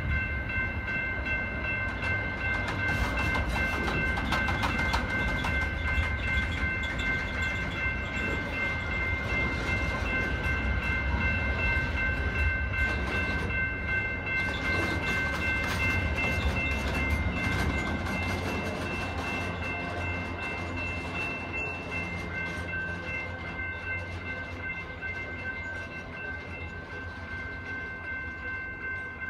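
Amtrak Auto Train autorack cars rolling past with a low rumble of wheels on rail, which fades after the last car goes by and the train draws away. A steady high ringing tone runs throughout.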